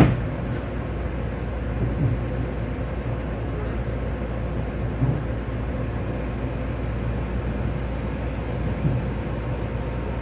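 Inside a Long Island Rail Road electric train in motion: a steady rumble of wheels on track, broken by a few short thumps from the rails.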